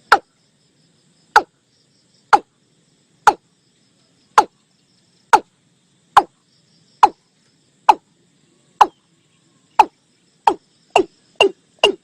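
Watercock calling: a series of short notes, each dropping in pitch, about one a second, quickening to about two a second near the end.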